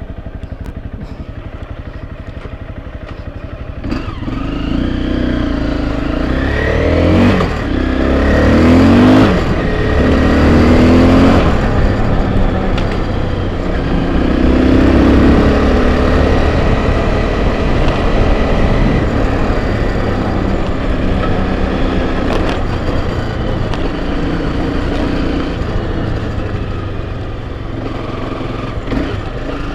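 Enduro dirt bike engine running quietly, then from about four seconds in pulling away and being ridden. The pitch rises and falls repeatedly with the throttle and gear changes.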